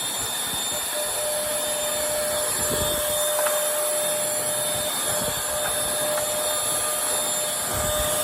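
Bissell Featherweight stick vacuum (model 20334, 2-amp motor) running steadily, a constant suction rush with a steady whine, and a few soft low thumps along the way.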